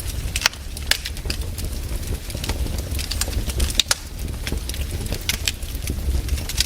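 Wood fire crackling: frequent irregular sharp snaps and pops over a steady low rumble.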